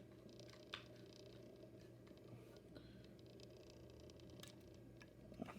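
Near silence: room tone with a few faint clicks from handling a diecast model car's plastic display stand, the clearest about three-quarters of a second in.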